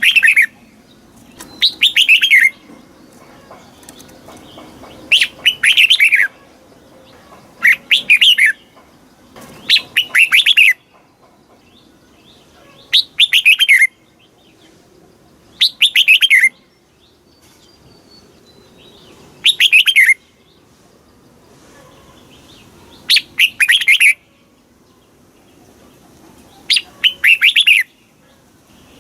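Red-whiskered bulbul singing: short, loud warbled phrases of a second or so each, repeated about every three seconds.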